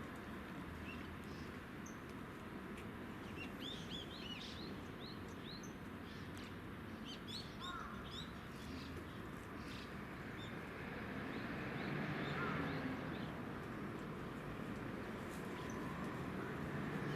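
Small birds chirping: quick runs of short, high, rising notes, thickest in the first half, over a steady hiss and low rumble of outdoor background noise that swells later on.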